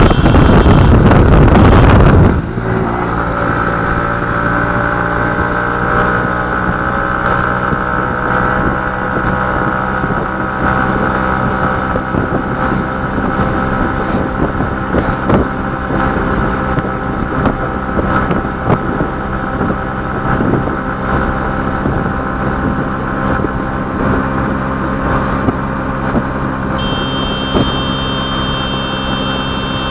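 Very loud wind buffeting on the microphone for about two seconds, then a motor vehicle's engine running steadily with scattered clicks and rattles. A high-pitched tone sounds for a few seconds near the end.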